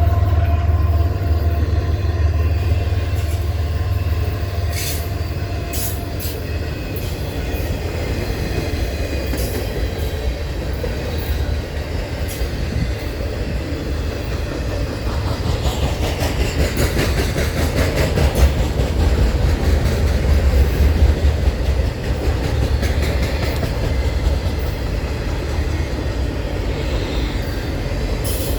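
CSX intermodal freight cars rolling past: a steady heavy rumble with wheels clicking over rail joints and some wheel squeal.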